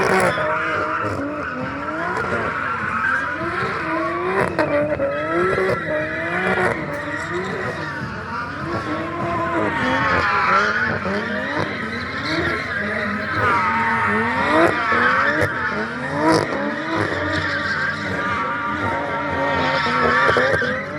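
BMW F82 M4's twin-turbo straight-six revving up and down over and over, about once a second, while the rear tyres squeal continuously as the car spins.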